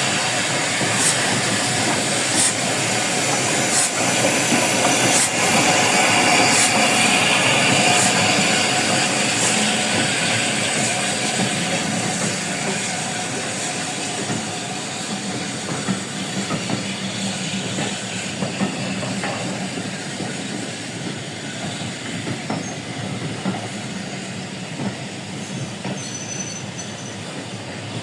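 Train running past on the rails, wheels clicking at the rail joints. It is loudest about a quarter of the way in, then fades steadily as it moves away.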